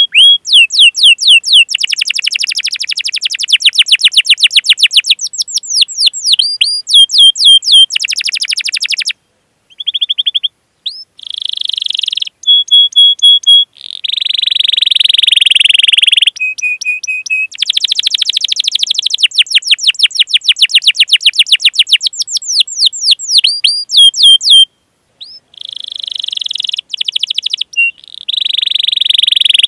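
Domestic canary singing: long strings of quick chirps alternating with held, rolling trills, broken by a couple of short pauses, one about nine seconds in and one near twenty-five seconds.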